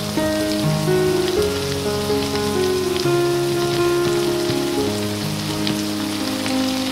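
Shrimp, baby corn and petai beans sizzling with a steady crackle as they are stir-fried in a nonstick pan. Background music of held notes that change every second or so plays over it.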